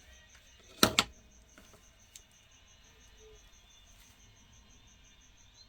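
Two sharp knocks in quick succession about a second in, then a couple of faint ticks: a small die-cast model car being handled against a hard surface. A faint high chirping pulses steadily, about five times a second, underneath.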